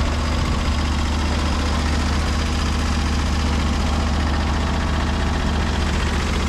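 Portable bandsaw sawmill's gas engine running steadily at an even speed, with a strong low hum.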